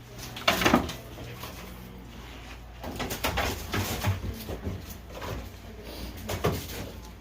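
Birds calling, with a few knocks and bumps, the loudest about half a second in.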